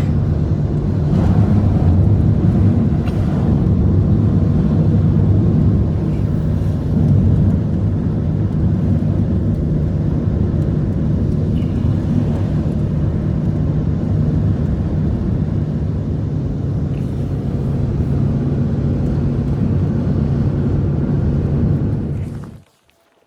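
A steady, loud engine running with a low hum that cuts off suddenly near the end.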